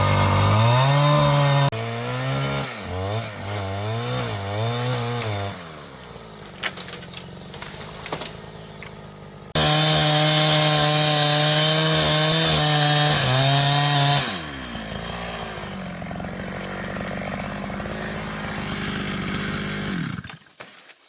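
Two-stroke chainsaw cutting wood, revving up and down, then held at full throttle for several seconds. It then drops to a steadier, lower speed and shuts off near the end.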